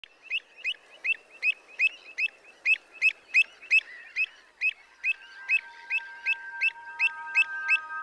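A bird calling over and over, short sharp calls at about two and a half a second. Faint held musical tones fade in under the calls from about five seconds in.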